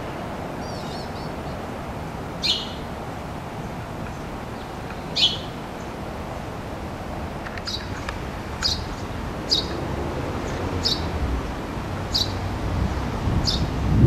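Short, sharp bird calls, two a few seconds apart and then about one a second from about eight seconds in, over a steady low background hum.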